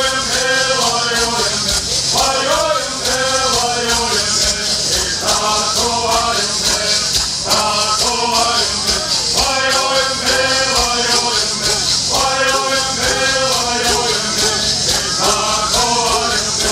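Southern California Native American bird song: a group of singers in unison, phrases repeating every couple of seconds, over the steady fast shaking of gourd rattles.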